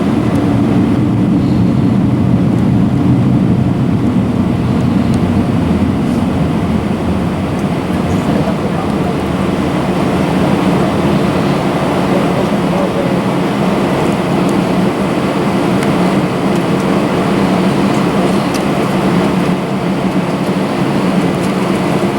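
Inside the cabin of an Airbus A320, a steady, loud drone of the jet engines and rushing air.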